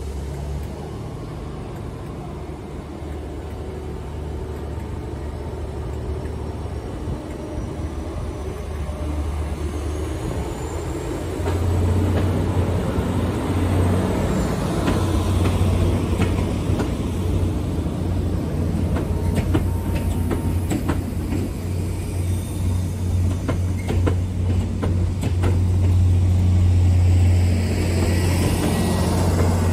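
A train running close by with a steady low drone that grows louder about twelve seconds in. A high whine rises and then falls, and a run of sharp clicks and rattles from the running gear follows.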